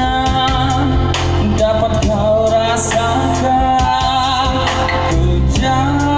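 A man singing a song, holding long wavering notes, over instrumental backing with steady bass and a regular beat.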